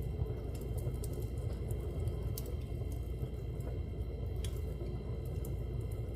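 Fire burning in a fireplace: a steady low rush of flame with scattered sharp crackles and pops at irregular moments.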